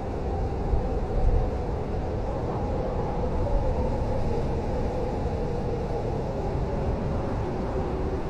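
Blizzard wind blowing steadily: a deep rumble with a wavering, howling tone on top, swelling slightly about a second in.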